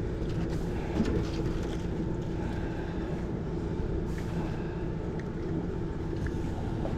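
Battery-powered trolling motor running with a steady hum over a low rumble of wind and water, and one knock about a second in.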